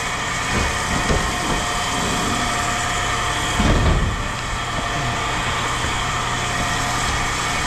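A vehicle engine idling steadily, with a brief louder low rumble about four seconds in.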